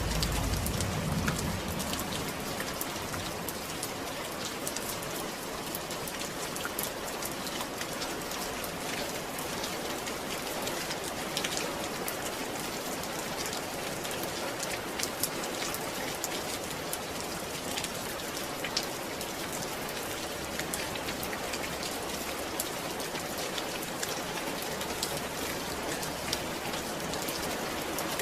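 Steady rain falling, a constant hiss with scattered individual drop ticks, and a brief low rumble at the very start.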